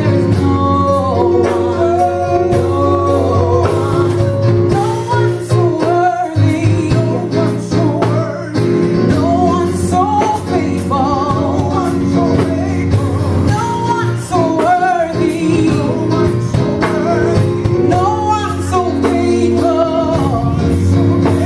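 Gospel music: singing over band accompaniment of sustained keys and bass, with a steady beat.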